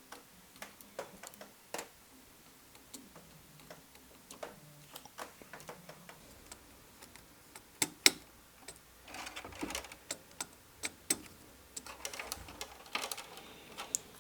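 Irregular small clicks and taps from hands working on a model locomotive's parts, with a couple of sharper clicks about eight seconds in.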